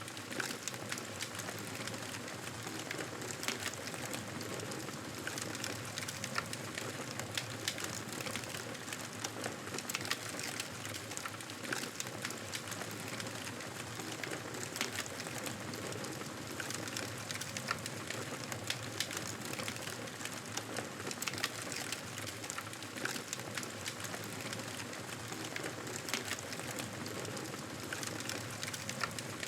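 Wood fire crackling steadily in a fireplace, with many small snaps and pops over a constant hiss.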